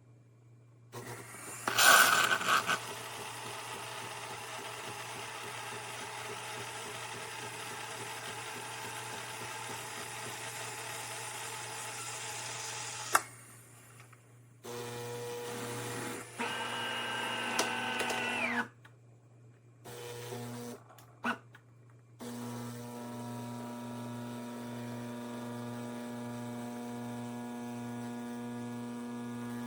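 De'Longhi Magnifica Start espresso machine running its motors: a noisy whirring stretch of about twelve seconds, then several runs of steady humming with short pauses between them.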